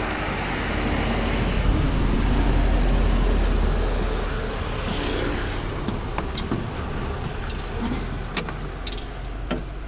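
A motor vehicle's engine running close by, a low rumble that swells over the first few seconds and then eases off. A few sharp clicks come in the second half.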